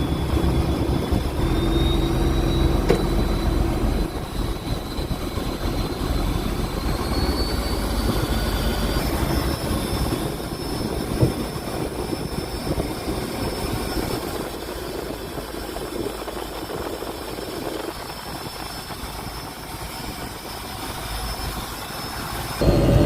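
Fishing boat's engine running steadily, its level dipping for a while and then jumping abruptly louder near the end.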